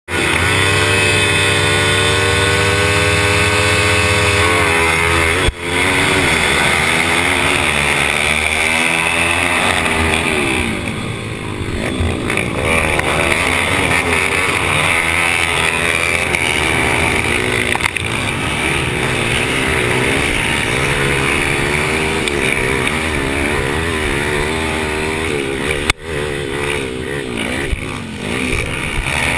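Pit-bike engines, small single-cylinder motorcycles, racing: the pitch holds steady for a few seconds, then rises and falls over and over as the throttle opens and closes. The loudness briefly drops out twice.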